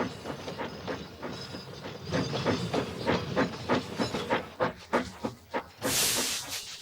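Steam locomotive chuffing in an even rhythm of about three puffs a second. The puffs thin out and stop, and a loud hiss of released steam follows near the end.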